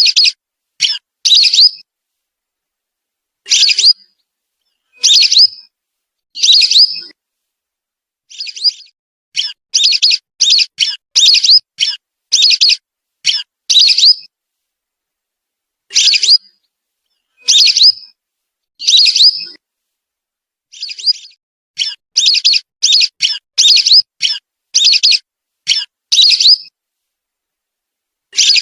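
Whistling duck calls played as a bird lure: short high whistles, some single and some in quick runs of four or five, with fully silent gaps between them.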